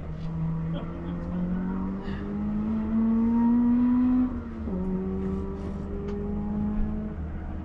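Car engine pulling hard, its pitch climbing steadily for about four seconds, then dropping sharply at a gear change and running on steadily at the lower pitch.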